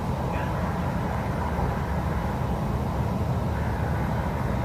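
Hyundai Rotem R-Train electric multiple unit running along the line, a steady low rumble and hiss of the moving train heard from inside the carriage.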